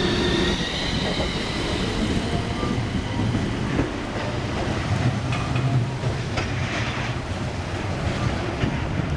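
Centram low-floor tram running, heard from inside the car. A high whine rises and fades over the first two seconds, then a steady rumble with scattered rail clicks.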